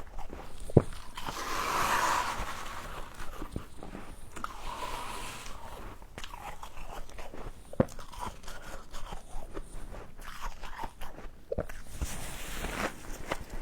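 Close-up crunching and chewing of hard frozen frost, with many crisp cracks and a sharp bite about a second in and another near eight seconds. A short rasping scrape around two seconds.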